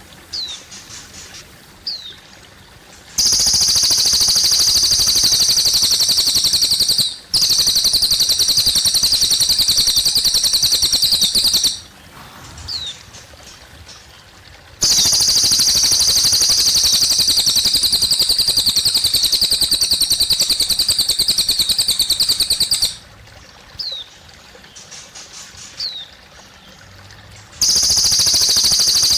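Cililin bird singing long, very rapid, high trills of several seconds each, over and over, with short pauses between them that hold single short falling chirps. Gently trickling water runs underneath.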